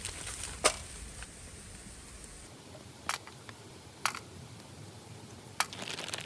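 Four sharp, separate clicks or taps spread over several seconds, the first the loudest, over a quiet background.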